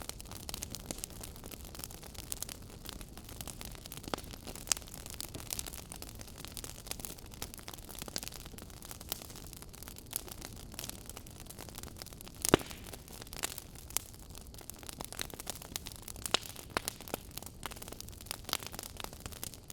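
Wood fire crackling in a fireplace: a steady low rush of flames with irregular sharp pops and snaps, one much louder pop about twelve and a half seconds in.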